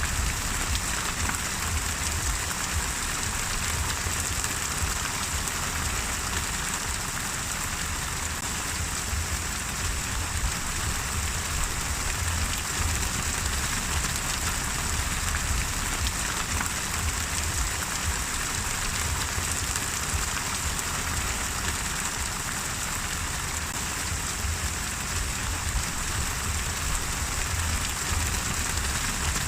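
Steady, gentle rain falling on a surface, with the patter of raindrops and a low rumble underneath.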